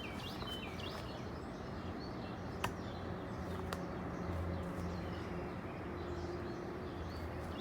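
Outdoor ambience: a steady low hum with birds chirping. Two faint sharp taps come about a second apart, a little under halfway through.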